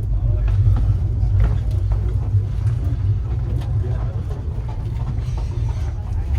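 Steady low rumble of a moving passenger train, with scattered faint clicks and knocks.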